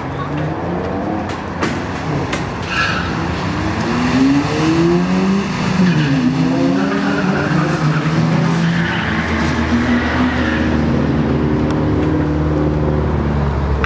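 Ford Focus four-cylinder engine launching off the drag-strip start line and accelerating hard down the quarter mile. The engine pitch climbs and drops back sharply a few times as it shifts up through the gears, then holds high near the end.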